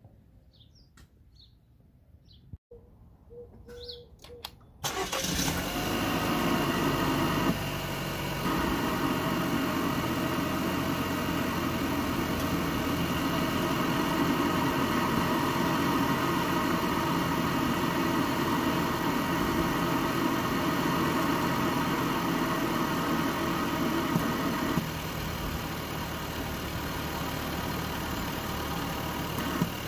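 A 2020 Chevrolet Equinox's 1.5-litre turbocharged four-cylinder starts about five seconds in and runs at a raised idle, which steps down near the end. This is its first start after the ECU was reset by disconnecting the battery, so it is relearning with the modified airbox intake.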